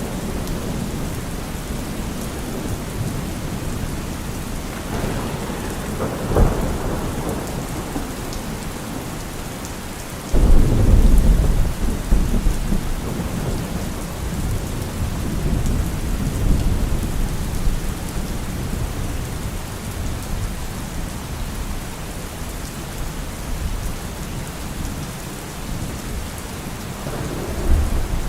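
Steady rain falling, with thunder: a sharp crack about six seconds in, then a deep rumble that starts suddenly around ten seconds in and rolls on for several seconds, and another rumble building near the end.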